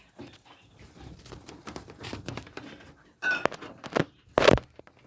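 Rustling, scraping and light knocks of hands handling diamond doves in a small bird cage. A brief squeak comes about three seconds in, followed by two louder knocks near the end, the second the loudest.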